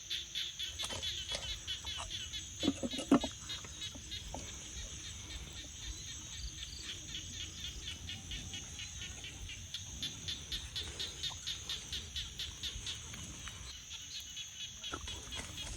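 Insects singing in the forest: a steady high drone with a rapid pulsing chirp beneath it. A couple of short knocks come about three seconds in.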